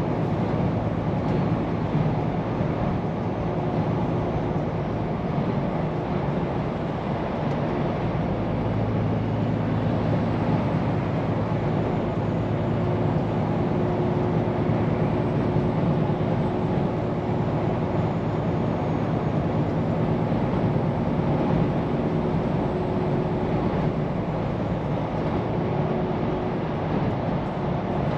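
Scania P410 truck's diesel engine running steadily under way, a continuous drone over road noise, its pitch shifting a little now and then.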